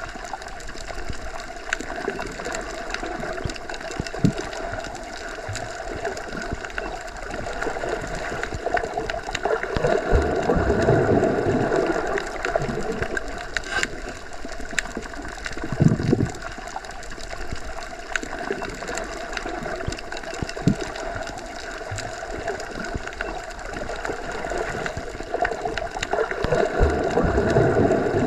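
Underwater ambience as heard while submerged: a continuous muffled rush and gurgle of water with a steady low hum. It swells louder a couple of times, and scattered soft clicks sound through it.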